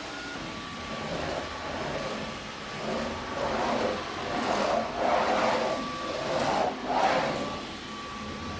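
Vacuum cleaner running with a steady motor whine. Its noise swells and eases several times in the second half, as the nozzle is pushed back and forth over the floor.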